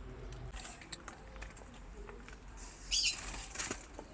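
Pet parrots calling: faint chirps, then two loud, harsh screeches about three seconds in.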